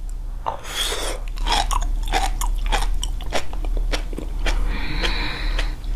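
Two people chewing sea grapes (umibudo seaweed), the small beads popping and crunching in their mouths as a quick, irregular run of tiny clicks.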